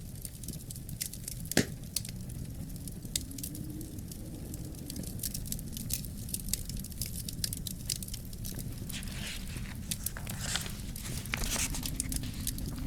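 Wood fire crackling: many sharp pops and snaps over a steady low rumble of the flames, one louder snap about a second and a half in, and two brief hisses a few seconds before the end.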